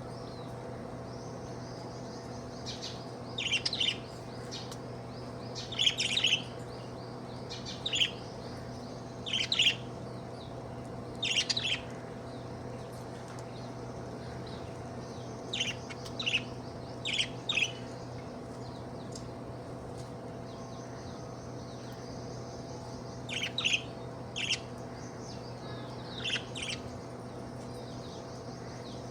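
Budgerigar chirping: short, sharp high chirps in clusters of two or three every second or two, with pauses of a few seconds, over a faint continuous high twitter. A steady low hum runs underneath.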